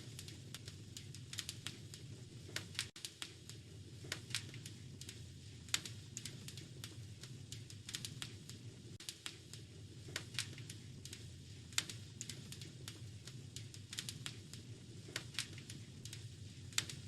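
Log fire crackling: irregular sharp pops and snaps over a steady low background rumble.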